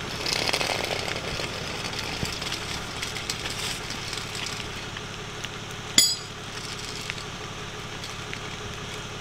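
Idling tow truck engine with a steady low hum under a crackly patter of rain, and one sharp metallic clink about six seconds in.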